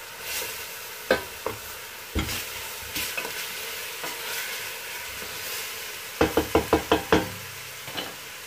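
Chicken pieces, onion and garlic sizzling in oil in a stainless steel pot as they are turned with a wooden spatula, with scattered knocks of the spatula on the pot. About six seconds in comes a quick run of about six sharp knocks, then one more near the end.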